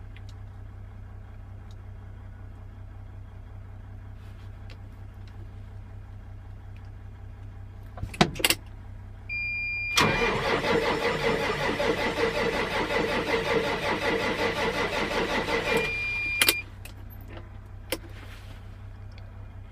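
Case IH MXM 190 diesel engine cranked on its starter for about six seconds in sub-freezing cold after the glow plugs, turning over in a steady pulsing rhythm without catching: a hard cold start. A couple of clicks and a steady beep come just before the cranking, and the beep sounds again as it stops.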